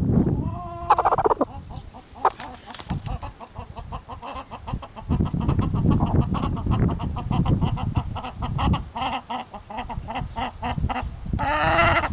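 Rooster making strange low clucking and squawking noises while being cuddled, with a louder call near the end; the owner thinks he may be trying to imitate chick noises.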